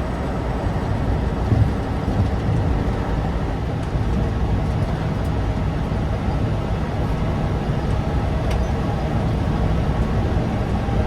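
Tatra 815's naturally aspirated, air-cooled V10 diesel engine running steadily, a deep even rumble with no rise or fall in pitch.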